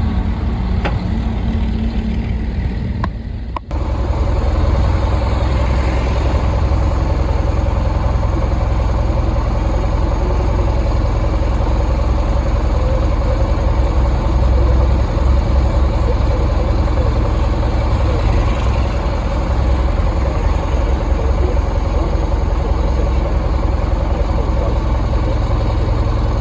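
Vintage tractor engine running steadily, with an abrupt change in the engine sound about three and a half seconds in.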